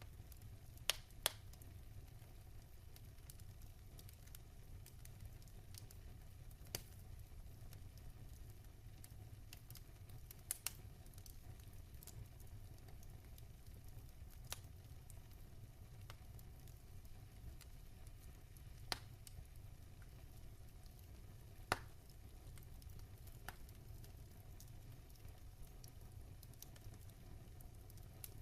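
Wood fire in a fireplace burning with a low steady rumble and a faint hiss, broken by sharp crackling pops every few seconds, two close together about a second in and the loudest near the end.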